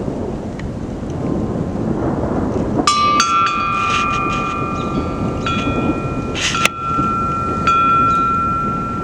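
Steady low rumbling noise of a thunderstorm with rain, and from about three seconds in, chime-like metallic tones ringing out, struck again several times and left to ring, with a short sharp clatter near the seventh second.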